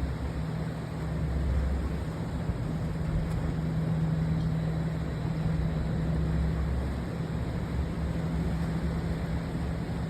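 Steady low drone of working ship engines during tug assistance, a constant hum over a deep rumble with a rushing noise on top.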